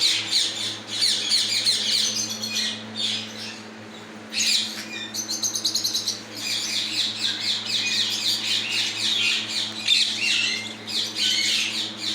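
A flock of caged parrots and small birds chirping and chattering nonstop, thinning out briefly about four seconds in, over a steady low hum from a running 12-volt fan.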